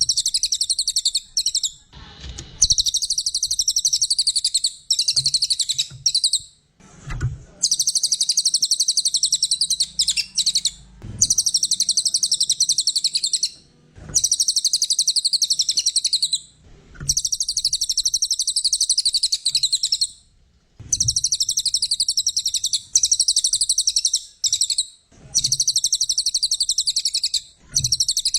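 Cililin coklat songbird singing: long phrases of rapid, high twittering trills, each a couple of seconds long, broken by short pauses. A few faint low knocks fall in some of the pauses.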